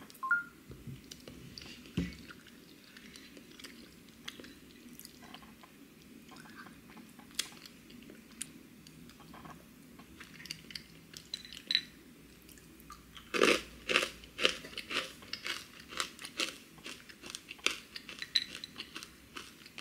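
Close-up chewing of crunchy granola, with scattered crisp crunches and a dense run of loud crunching about thirteen seconds in. The granola is very crunchy.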